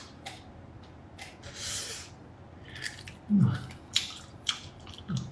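A man chewing a braised octopus tentacle: soft wet chewing with several sharp mouth clicks in the second half, and a short low hum about three and a half seconds in.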